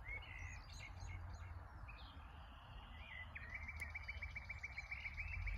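Bulbul singing: a few short whistled phrases, then from about three seconds in a fast trill of repeated notes, about ten a second. A low steady rumble runs underneath.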